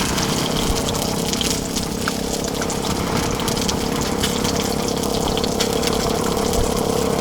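Salmon frying in oil in a pan on a propane camp stove: a steady sizzle with many small spattering crackles.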